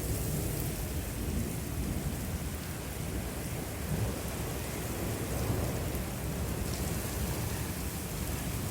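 Thunderstorm: steady rain falling on surfaces over a continuous deep low rumble, with no single sharp thunderclap.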